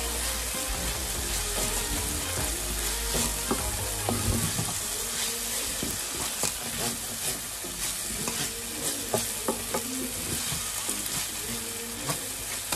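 Chopped onion, spring onion and green pepper with spices sizzling in oil in a frying pan as the mixture is stirred, with scattered taps and scrapes of the utensil against the pan.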